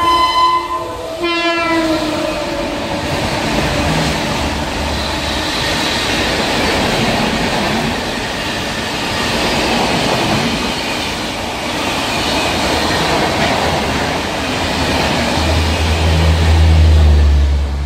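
Indian Railways express train running through a station at speed: the locomotive's horn blasts twice, the second falling in pitch as it goes past. A long steady rush of the coaches passing follows. A low hum comes in near the end.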